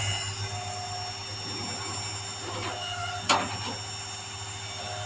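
Tow truck's winch and engine running with a steady low drone while the wrecked car is pulled up onto the truck, with creaks and one sharp clank a little over three seconds in.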